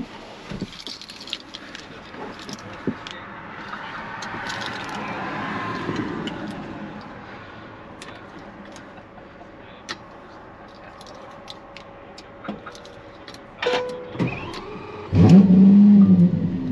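Key-fob rattle and small cabin clicks, then about fifteen seconds in the Lamborghini Aventador SVJ's V12 fires up loudly, its revs flaring up and dropping back.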